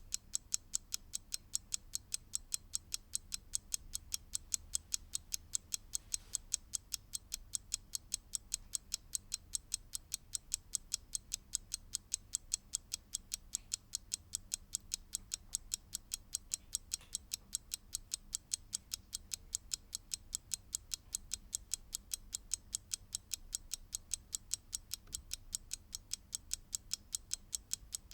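Mechanical clock ticking: quick, perfectly even ticks, several a second, with no pauses or changes.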